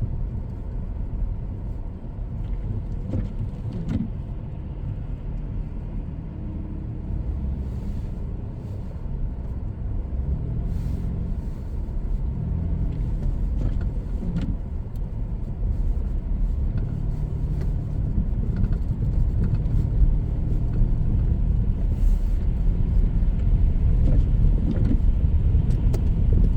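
A car driving on a snowy road: a low, steady engine and tyre rumble whose pitch rises and falls a little, growing louder toward the end.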